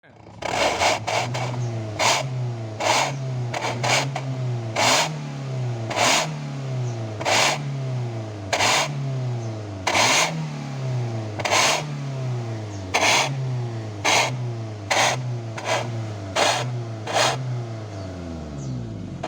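Car engine revved in short repeated throttle blips through an aftermarket muffler. About every second or so the exhaust note jumps up with a sharp bark and then falls away toward idle.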